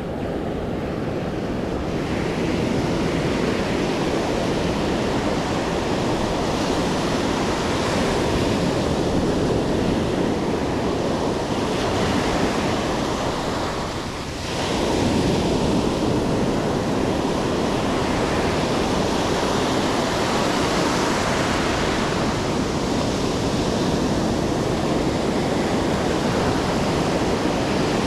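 Ocean surf washing steadily onto the beach, with wind buffeting the microphone; the noise dips briefly about halfway through.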